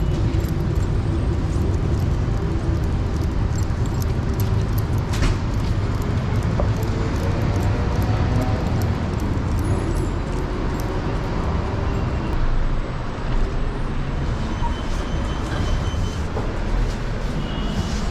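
Steady rumble of city street traffic, with a few faint clicks and knocks.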